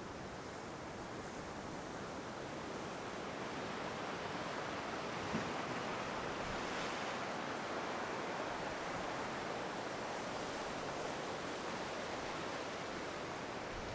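Ocean surf breaking and washing on the shore: a steady rush that swells gently through the middle and eases off.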